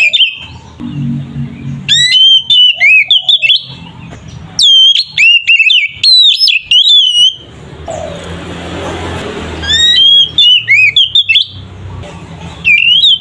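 Oriental magpie-robin (kacer) singing loud, varied whistled phrases with quick upward sweeps, in several bursts separated by short pauses. In the middle the whistling gives way to a rough, hissing stretch of a few seconds before the phrases resume.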